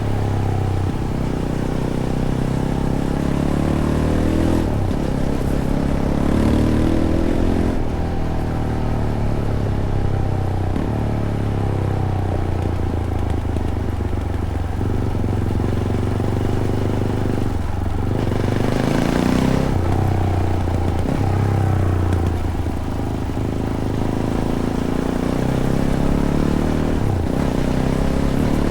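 Fantic Caballero 500's single-cylinder engine through its stock Arrow exhaust, riding along a trail: the engine note rises and falls over and over as the throttle is opened and closed and gears are changed.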